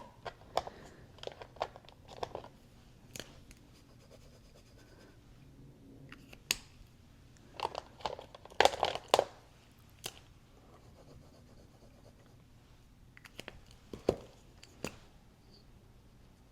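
Tempera paint sticks being handled and drawn across paper: scattered short scrapes, scratches and small clicks, with a few louder clusters about halfway through and again near the end.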